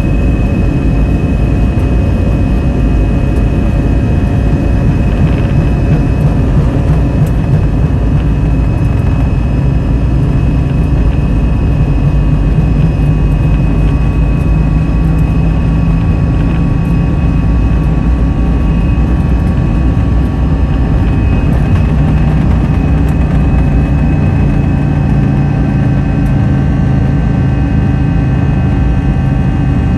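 Airbus A320's jet engines running at high thrust, heard inside the cabin during takeoff: a steady, loud rush with a deep rumble and several high, even whining tones.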